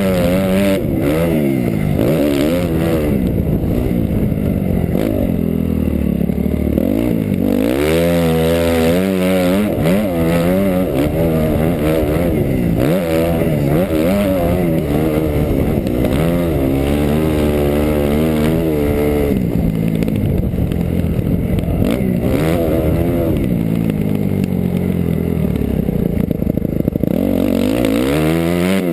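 2008 Suzuki RM-Z250 four-stroke single-cylinder motocross engine being ridden hard, its pitch climbing and dropping again and again as the throttle is opened and closed and gears change, heard from a camera mounted on the bike or rider.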